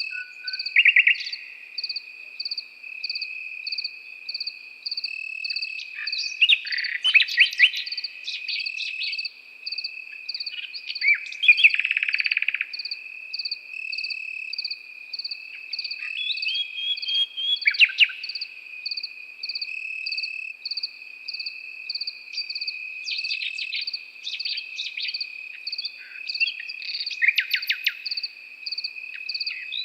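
Nightingale singing in separate phrases of rapid repeated notes every few seconds, over crickets: one steady high trill and another chirping about three times a second.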